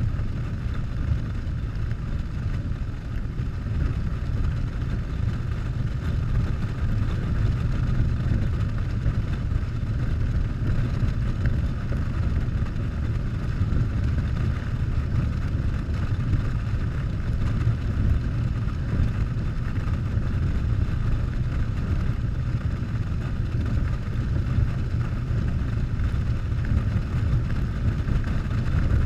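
Harley-Davidson Softail's V-twin engine running at a steady cruising speed with continuous wind rush on the camera microphone, a deep, even rumble throughout.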